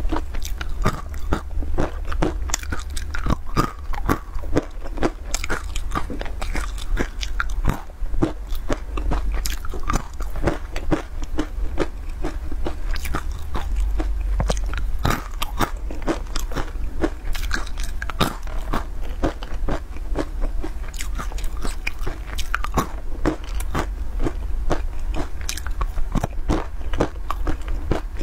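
Close-miked biting and chewing of sesame-coated candied walnuts: a dense run of crisp crunches, over a steady low hum.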